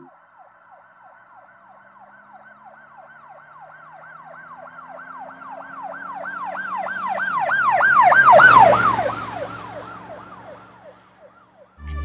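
Emergency-vehicle siren in a fast up-and-down wail, about three sweeps a second. It grows louder to a peak about eight and a half seconds in, then drops slightly in pitch and fades away as it passes.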